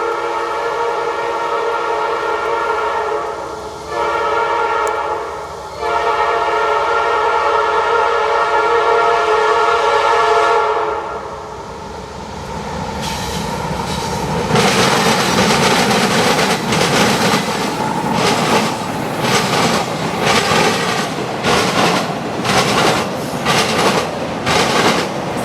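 A freight locomotive's multi-chime air horn sounds a long blast with two brief breaks, then stops after about eleven seconds. The train then rolls past, a rumbling run of cars with repeated clicks of wheels over rail joints.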